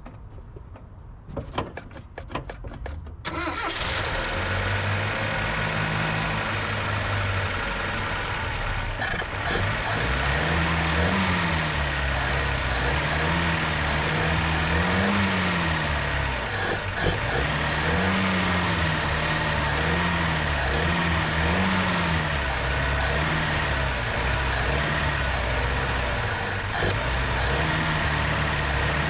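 Datsun 521 pickup's four-cylinder engine cranking with a few clicks, catching about three seconds in, then running with the throttle repeatedly raised and let back down.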